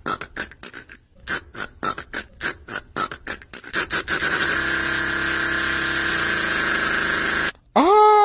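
A person laughing in a high, odd way: quick breathy bursts of about four a second, then one long drawn-out breath, and after a brief break a loud high held squeal near the end.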